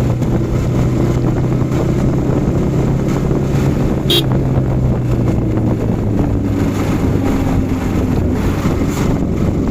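Yamaha R15 V4's 155 cc single-cylinder engine running steadily under way, with heavy wind noise on the microphone; the engine note changes about halfway through. A short high beep about four seconds in.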